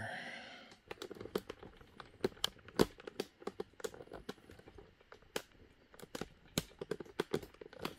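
Irregular light clicks and taps of a metal hex key being fitted to and worked on the hotbed locking screws of a 3D printer, the scattered sharp ticks of tool against screw and frame.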